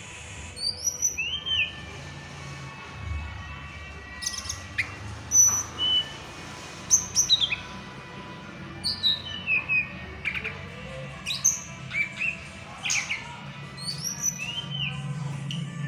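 Tledekan gunung, a small flycatcher, singing: short, high chirps and whistled notes, several sliding downward, in irregular clusters every second or so. It is played as a lure recording to draw a silent bird into answering.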